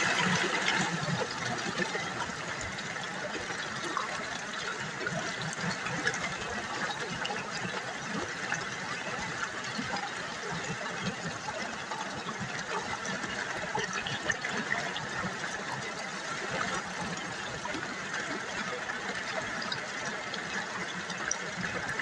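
River water trickling and babbling over stones, a steady, even burble.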